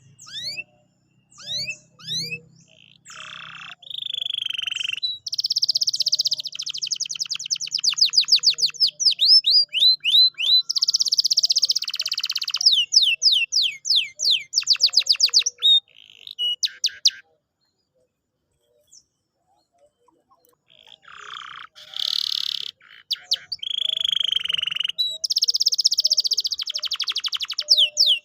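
Canary singing: rapid falling whistled notes, dense trills and fast rolls, in long phrases. The song stops for a few seconds about two-thirds of the way through, then starts again.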